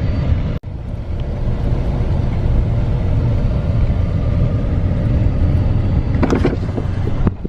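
A car or truck driving, a steady low rumble of engine and road noise that drops out for an instant less than a second in.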